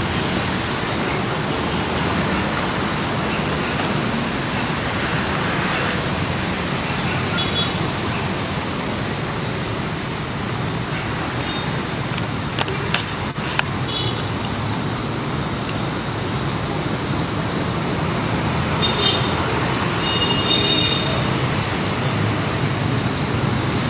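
Steady vehicle and road noise with a low hum underneath. A few sharp clicks come about 13 seconds in, and short high beeps come near the end.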